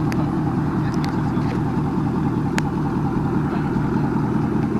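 Steady road and engine noise of a pickup truck being driven, heard as a constant low rumble, with a few faint sharp ticks.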